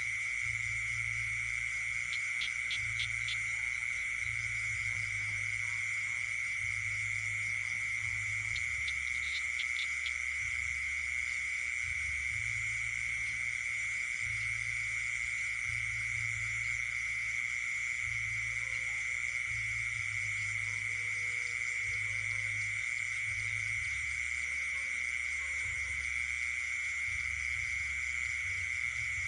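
Night chorus of frogs and insects: a steady high-pitched trill with fainter, higher insect buzzing above it, and a short run of rapid clicking calls twice, early and about nine seconds in. A low hum runs underneath.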